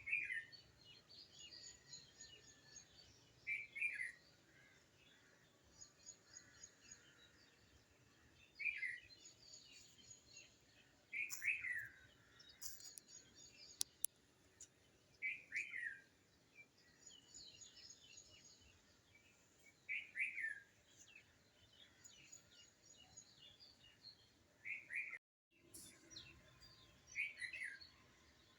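Birds calling: one bird repeats a short downward-sweeping call every few seconds, with fainter high twittering from other birds behind it. The sound cuts out completely for a moment near the end.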